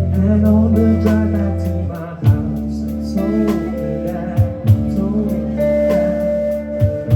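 Live rock band playing, with guitars, bass guitar and drums and a singer's voice, and sharp drum hits every few seconds.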